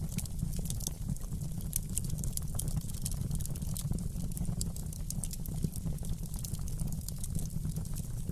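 Wood fire in a fireplace crackling: many small, irregular sharp pops and snaps over a steady low rumble of the flames.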